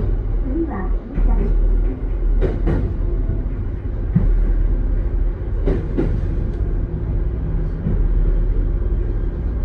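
A train running: a steady low rumble with a few sharp knocks, two of them close together about six seconds in.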